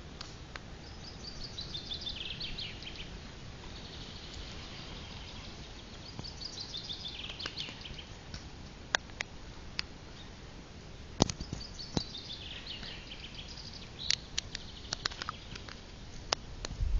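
A songbird singing a short phrase of quick notes falling in pitch, three times about five seconds apart, over a steady low rumble, with scattered sharp clicks.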